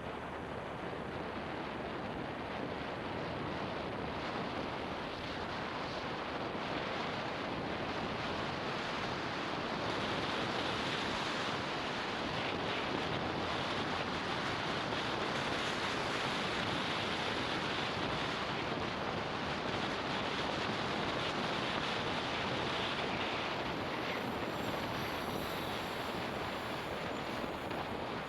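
Wind rushing over the microphone of a camera riding on a moving motorbike, a steady noise that mixes with road and engine noise. It grows louder about ten seconds in and eases off again near the end.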